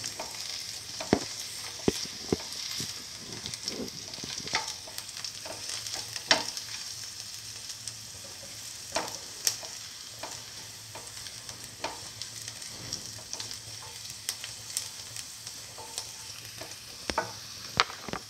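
Sliced onions and garlic frying in hot oil with a steady sizzle, while a plastic spatula stirs and scrapes them around the pan with sharp clicks now and then.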